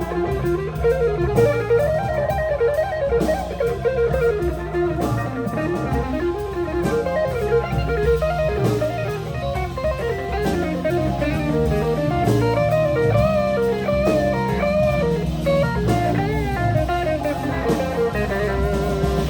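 Live band of electric guitar, organ and drum kit playing an instrumental passage, with the electric guitar taking the lead in a bending, bluesy melodic line over sustained organ chords and a steady drum beat.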